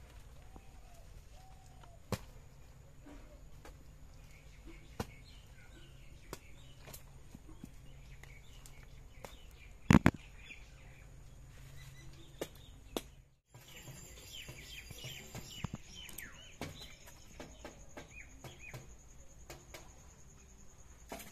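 Small birds chirping, with scattered clicks and handling knocks and one loud thud about ten seconds in. The sound drops out briefly a little past the middle, then the chirping carries on.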